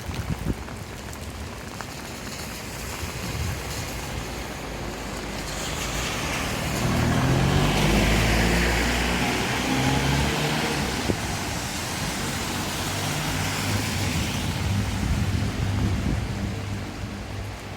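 A car drives past on a rain-soaked street, its tyres hissing through the water and its engine running low underneath, building to a peak about eight seconds in and then easing off. Steady rain falls throughout.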